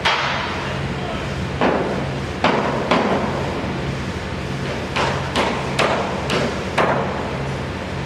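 Hammer blows, about nine sharp strikes at uneven spacing, some ringing briefly. Underneath runs a steady low machine hum.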